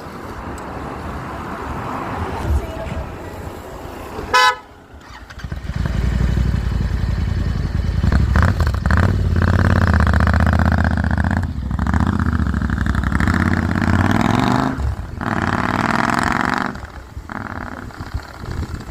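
A Royal Enfield Interceptor 650's parallel-twin engine running through a Red Rooster aftermarket exhaust, loud and deep, revving up and down several times with short breaks in the sound. A short horn toot comes about four seconds in.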